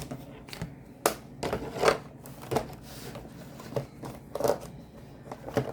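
Raw chicken pieces being turned and shaken in flour for dredging: a string of soft, irregular rustling thuds.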